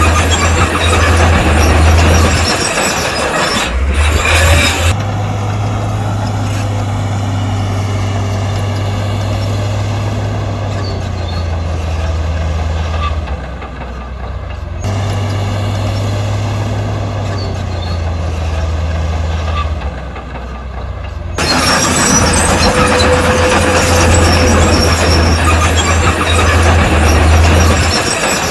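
Heavy diesel construction machinery engines running with a steady low drone, the sound cutting abruptly from one clip to the next several times.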